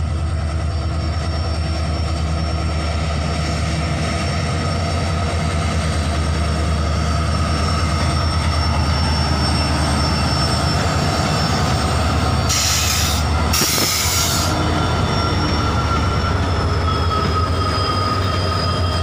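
A diesel-hauled freight train passing close on the near track, with a steady low locomotive engine drone and high, thin wheel squeal over it. About two-thirds of the way through come two short hisses, and the engine drone drops away as the wagons roll by.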